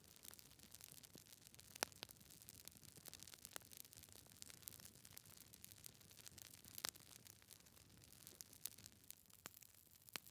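Wood fire burning in a fireplace, faintly crackling, with a few sharp pops from the logs: one about two seconds in, a louder one about seven seconds in, and another near the end.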